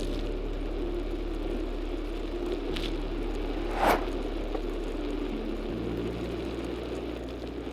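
Steady low rumble of a car driving, mixed with background music whose bass notes change every few seconds. A short rushing noise rises and falls about four seconds in.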